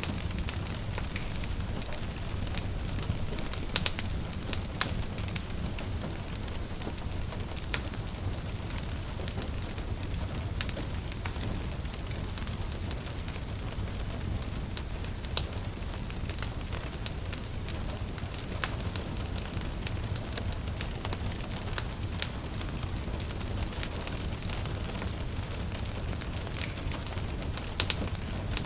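Wood fire crackling with sharp pops and snaps, some louder, over a steady patter of rain and a low rumble.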